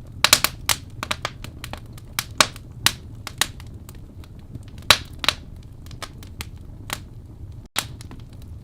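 Wood fire burning in a fireplace, crackling with irregular sharp pops over a low steady rumble; a quick run of pops comes just after the start, then single pops every second or so.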